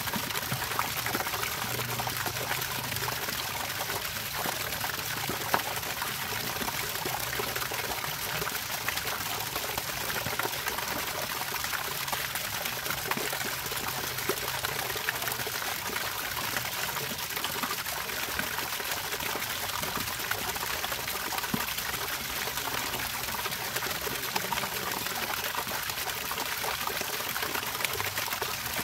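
Water trickling and splashing steadily, a continuous run of small splashes and drips.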